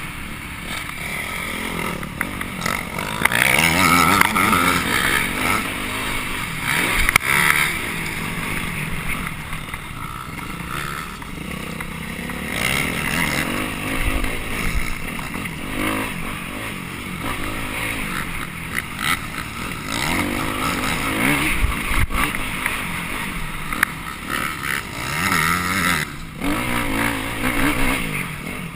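Off-road motorcycle engine heard on board, revving up and down as the bike is ridden hard around a dirt course, with repeated surges of throttle and a brief cut about three-quarters of the way through.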